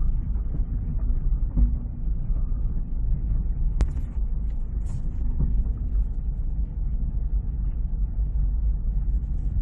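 Steady low rumble of a car on the move, as heard from inside the cabin, with a single sharp click about four seconds in.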